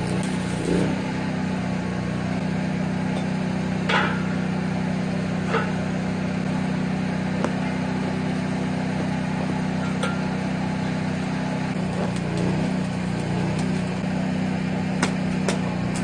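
Electric arc welding on steel: a steady electrical hum from the welder under a constant crackling hiss, with a few sharp clicks, the loudest about four seconds in.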